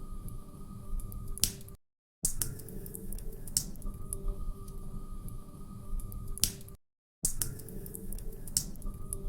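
Crackling log fire in a fireplace: irregular sharp pops and snaps over a low rumble, with a faint steady tone underneath. The sound cuts out completely for a moment twice, about two seconds and seven seconds in, where the recording loops.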